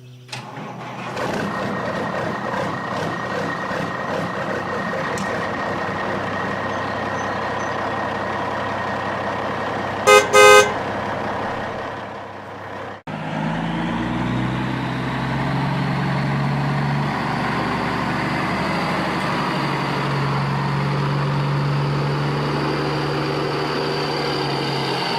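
Truck engine running steadily, with a loud horn honk about ten seconds in. After a sudden break a little later, another truck engine runs on with a slowly rising whine.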